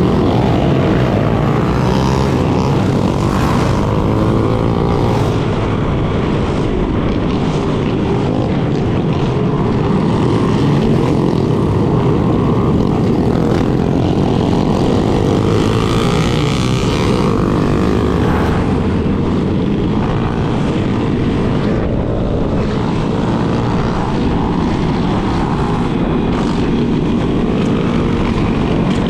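Yamaha Lander 250's single-cylinder engine running steadily at riding speed, mixed with a loud, steady wind rumble on the camera microphone.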